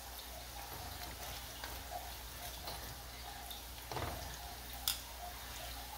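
Glutinous-rice dough rings deep-frying in oil in a wok at medium-low heat: a steady low sizzle with scattered crackles. Metal tongs turn the rings, with a louder bubbling surge about four seconds in and a sharp click of the tongs just before five seconds.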